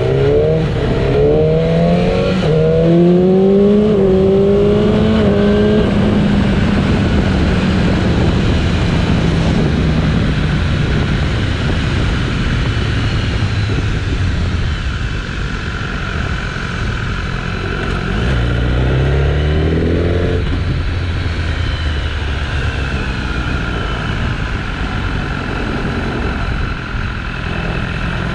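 BMW S1000RR inline-four engine pulling hard through the gears, its pitch climbing and dropping back with several quick upshifts in the first few seconds. It then cruises steadily and accelerates again about eighteen seconds in, under a constant rush of wind and road noise.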